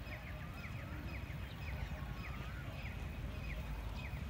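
Birds calling: a steady run of short falling chirps, about three a second, with a few wavering whistles, over a constant low rumble.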